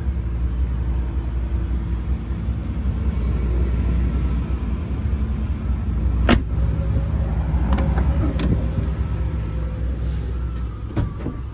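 Steady low rumble of the Caprice's 5.0 L V8 idling, heard from inside the cabin, with a few sharp clicks in the second half.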